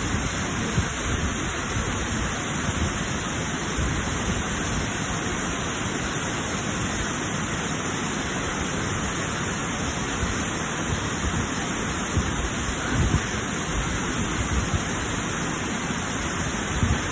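Waterfall: a steady rush of falling, splashing water with a low rumble under it.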